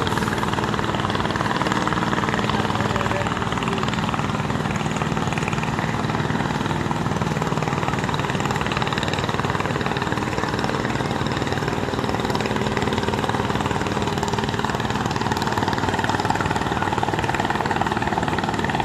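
Engines running steadily: a loud, unbroken mechanical drone with a low hum.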